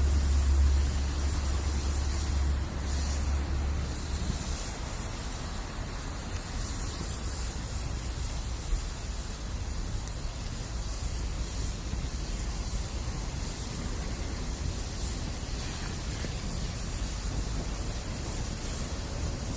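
Bamboo campfire burning with a steady hiss, the kind given off as moisture inside the bamboo steams out, and a single sharp pop about nine seconds in. A low rumble runs under the first four seconds or so.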